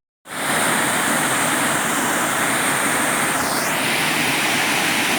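Waterfall water rushing in a steady, loud hiss, starting just after a brief cut of silence.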